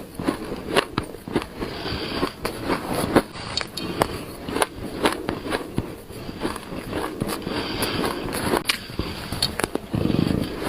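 Mouthfuls of shaved ice being bitten and chewed up close: a dense, irregular run of sharp crunches and crackles, with a brief duller, lower sound near the end.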